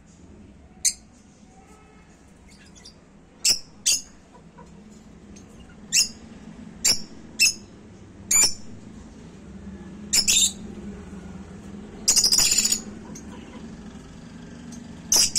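Caged finches calling: about ten short, sharp, high chirps at irregular intervals, with one longer chattering call about twelve seconds in.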